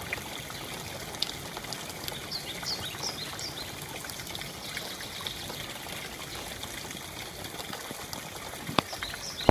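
Rain falling steadily with trickling water and scattered drips tapping. A bird chirps a few short times about a quarter of the way in, and one sharper tap sounds near the end.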